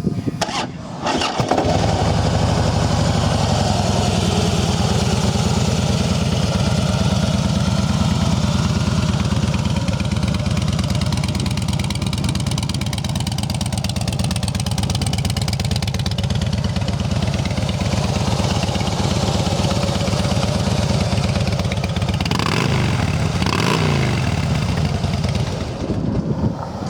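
2009 Harley-Davidson Fat Boy's 96-cubic-inch Twin Cam V-twin starts about a second and a half in and idles steadily. Near the end it is revved up twice and falls back to idle.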